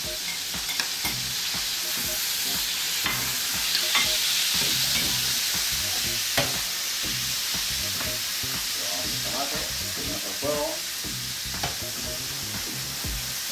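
Sofrito of rabbit, green beans and freshly added tomato sizzling in a paella pan, with a spatula stirring and scraping through it and clicking against the metal pan now and then.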